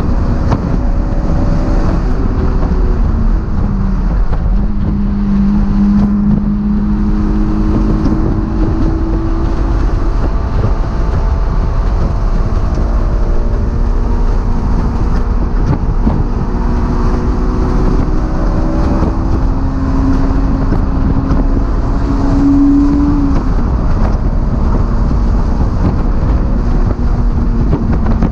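Honda S2000's four-cylinder engine under hard driving, its note climbing through the revs and dropping back at each gear change, heard from inside the open-top cabin under steady wind noise.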